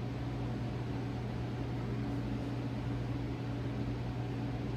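Steady low hum with a faint hiss from a ceiling-mounted shop heater.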